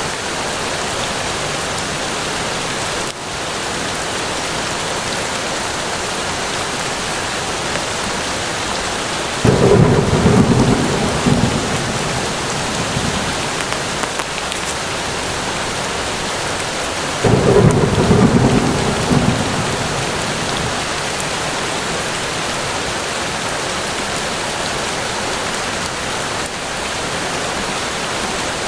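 Steady rain falling, with two rumbles of thunder: each starts suddenly and rolls on for a few seconds, the first about ten seconds in and the second about eight seconds later.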